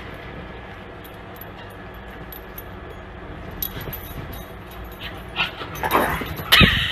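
A pug whining and yipping, with a louder outburst near the end.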